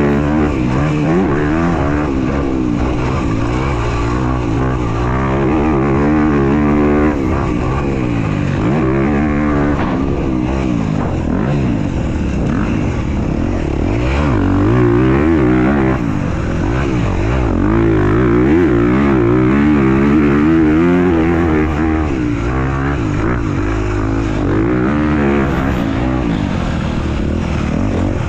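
Motocross bike riding laps, its motor pitch rising and falling over and over as it accelerates and slows.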